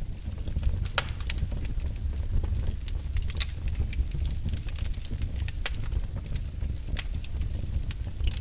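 Wood fire burning in a fireplace: a steady low rumble of flames with sharp crackles and pops scattered irregularly, the loudest pops about a second in and near the end.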